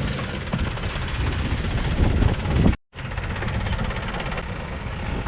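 Longtail boat engine running steadily under way, heard from aboard the boat. The sound drops out to silence for a moment about three seconds in.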